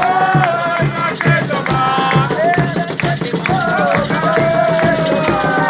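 Afro-Brazilian Candomblé ritual music for Xangô: voices singing a chant over percussion with repeated drum strokes and a shaken rattle.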